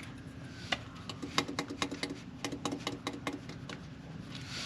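A dozen or so light, irregular metal clicks and taps from the opened bottom end of a Honda G23 engine as it is worked by hand while its connecting rod bearings are checked for wear.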